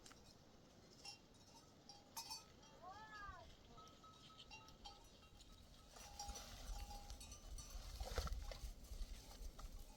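Faint sounds of a herd of goats: small neck bells ringing and clinking, and one short bleat about three seconds in.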